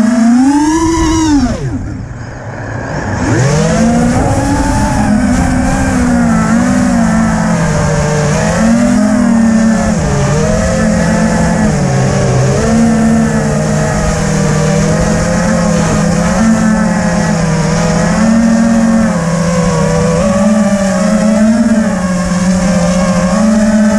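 FPV quadcopter's electric motors whining, the pitch rising and falling with the throttle. About a second and a half in, the motors spool down almost to nothing, then spool back up and keep a steady, wavering whine.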